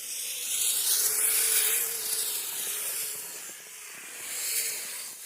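Radio-controlled Kyosho tracked snow vehicle running through snow: a steady hiss with a faint, wavering electric motor whine underneath.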